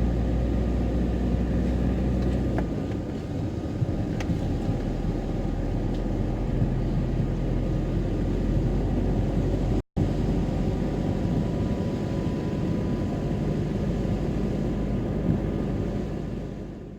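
Steady engine and road rumble of a camper van driving. The sound breaks off for a moment about ten seconds in.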